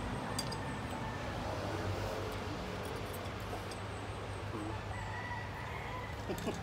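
Faint, drawn-out bird calls over a steady low hum and background noise.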